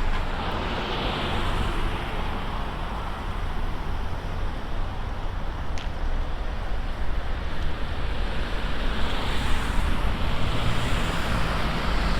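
Wind buffeting the microphone of a chest-mounted camera on a moving bicycle, a steady low rumble with road traffic noise beneath it. A brief high tick sounds about six seconds in.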